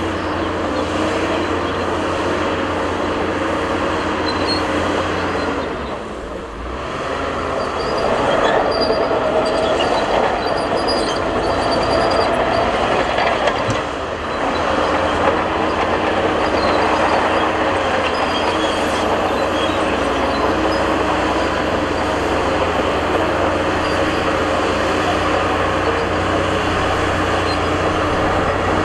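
Bulldozer working under load: the diesel engine runs hard while the steel crawler tracks clank and squeal. The engine note shifts and the sound drops briefly twice, about six and fourteen seconds in.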